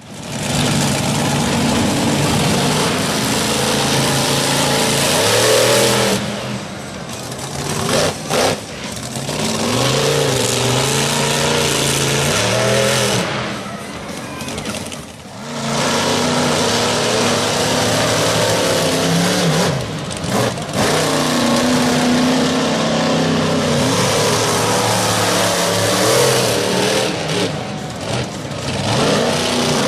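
Monster truck's supercharged V8 engine revving hard, the pitch climbing and falling again and again, with a few short drops in level.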